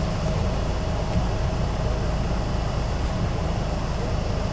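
Isuzu Erga city bus's diesel engine running steadily with a low rumble, heard from inside the passenger cabin.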